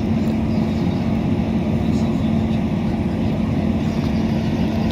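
A diesel train's engine running with a steady drone and a held hum.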